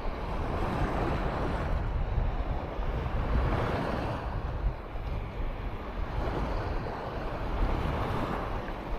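Surf washing onto a sandy beach, swelling and easing every few seconds, with wind rumbling on the microphone.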